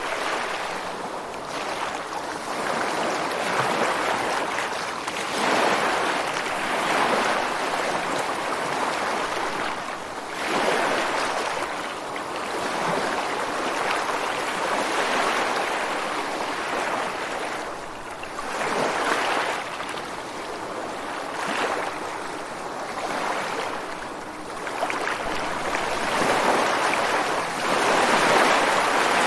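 Ocean surf breaking and washing onto a beach: a continuous rushing hiss that swells as each wave comes in and eases between them, several times over, loudest near the end.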